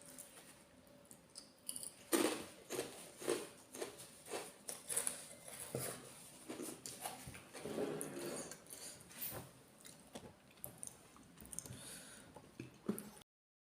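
Close-up chewing and wet mouth smacks of someone eating red curry, an irregular run of short clicks and squelches. The sound drops out for a split second near the end.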